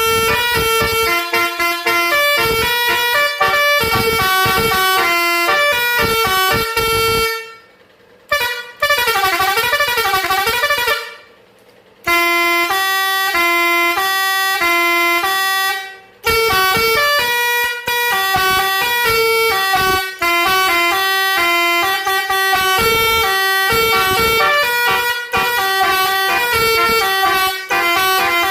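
Road Master 666 multi-tone musical vehicle horn playing tunes of stepped notes, with a wavering, warbling passage about a third of the way in. It stops briefly a few times between tunes.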